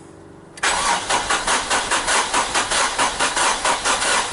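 Starter cranking the Hyundai Matrix's 1.5 CRDI diesel engine, starting about half a second in, with an even pulsing of about three to four strokes a second. The engine turns over without firing, as on the first start after reassembly with the injection pump's fuel lines still being bled of air.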